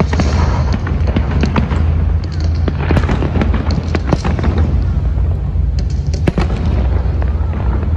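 Aerial fireworks bursting in quick succession: a dense run of sharp bangs and crackles over a continuous low rumble, thickest about three, four and six seconds in.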